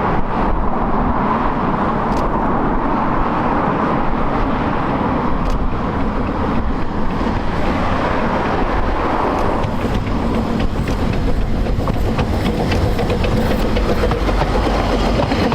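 Narrow-gauge steam train running: a steady rumble and rush, with sharper rail clicks joining in during the second half.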